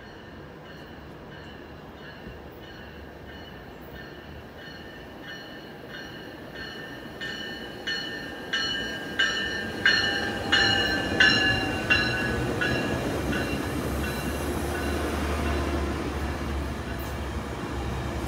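Metrolink commuter train passing: a bell rings about one and a half strikes a second, growing louder to a peak about midway and then fading. A low rumble of the bi-level cars rolling by rises in the second half.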